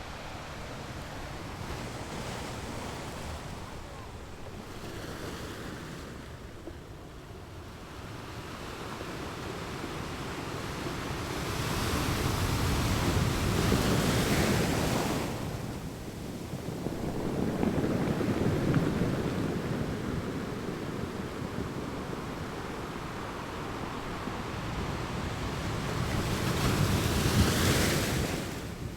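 Ocean surf breaking and washing up the shore, swelling and ebbing in slow surges. The biggest waves rush in about halfway through and again just before the end, each dropping away quickly.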